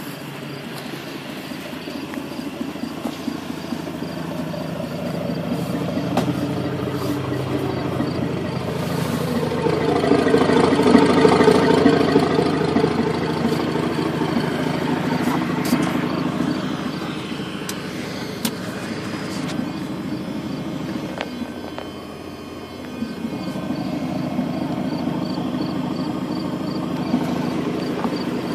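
Chevrolet S10 pickup engine running through its exhaust, idling with slow swells in revs. The loudest swell comes about ten to twelve seconds in, followed by a short dip and then a rise again later on.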